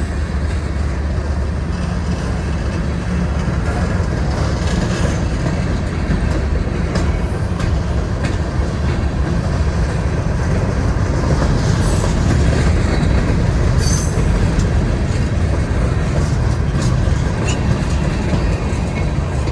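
Freight cars of a CSX train rolling past on the track, a steady heavy rumble of wheels on rail as the train pulls out of a siding. A few brief, sharp metallic squeals come through, the strongest around the middle.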